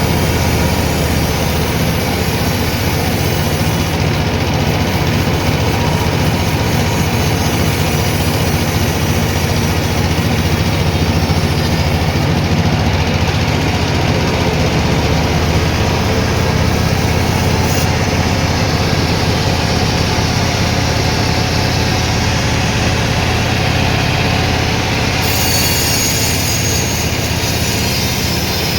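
Sawmill machinery running steadily and loudly, a continuous low mechanical drone with a broad hiss, as when teak logs are being sawn.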